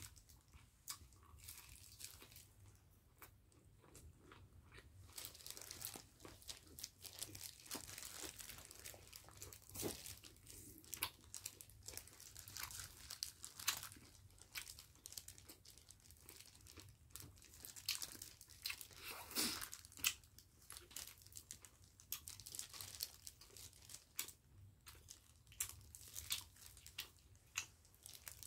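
Close-up eating sounds: irregular crunching and chewing of kimchi and chewy rice cake, with the crinkle of disposable plastic gloves as the food is torn apart by hand.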